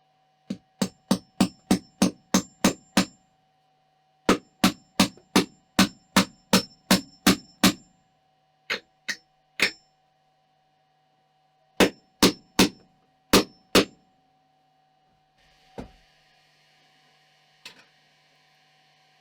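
Repeated sharp, ringing strikes, about three a second, in several quick runs with pauses between them, like a hammer driving nails. About 15 seconds in, a steady hiss begins and two lighter knocks follow.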